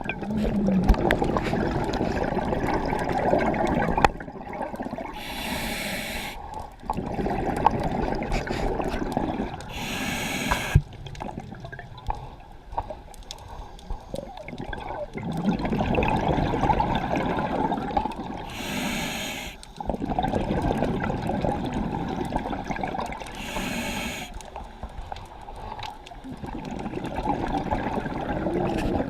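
A scuba diver breathing through a demand regulator underwater. Each short, high hiss of the inhale is followed by a long, bubbling rush of exhaled air, about every four to five seconds.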